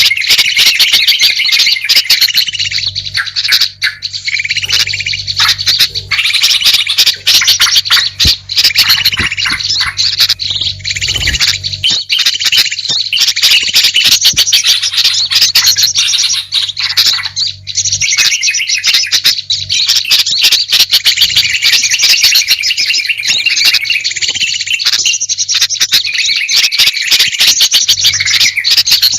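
Bird-lure recording: a dense, unbroken mix of small songbirds chirping, trilling and calling, played to draw wild birds in. A low steady hum sits underneath for the first dozen seconds.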